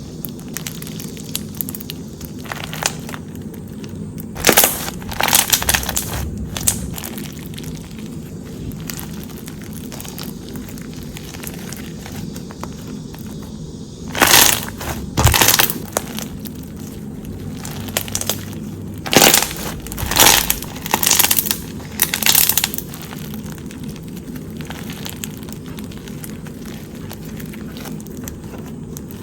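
Crunchy floam slime being pressed and squeezed, giving bursts of crackling and popping as the foam beads crunch. The bursts come in separate spells of about a second each, with a steady low hum between them.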